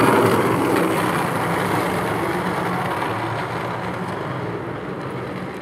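A motor vehicle going by: steady engine hum and road noise that slowly fade away as it moves off.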